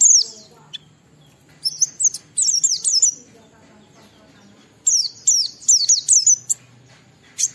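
A pleci (white-eye) singing its ngalas song: runs of rapid, high, down-slurred chirps, a short burst at the start, then two longer runs about two seconds in and again about five seconds in.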